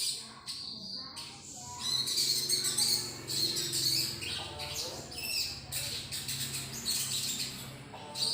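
A bird calling in quick, high-pitched chirps and trills that run together, loudest through the middle, over a faint low hum.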